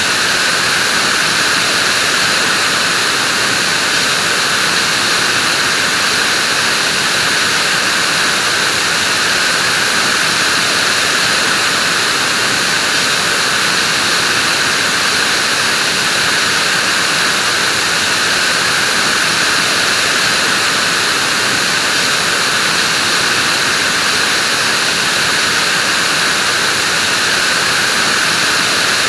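Vacuum cleaner running steadily, giving an even, unbroken whooshing hiss that never changes.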